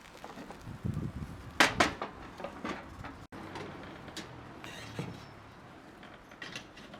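Hot sandwich maker and wood stove being handled: a series of metal clicks and knocks, the loudest about two seconds in, with low scraping and handling noise between them.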